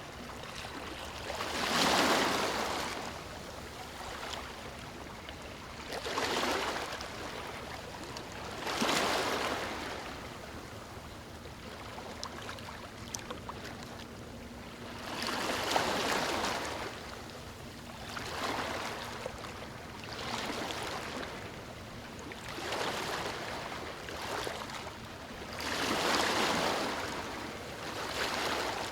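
Ocean waves breaking and washing up on a beach: repeated surges of surf every few seconds, some clearly louder than others, falling back to a steady wash in between.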